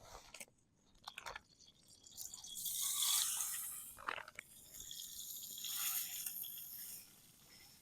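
Cooking oil squeezed from a bottle into a camp cooking pan: a few short clicks, then two spells of squirting, splashing liquid lasting a couple of seconds each.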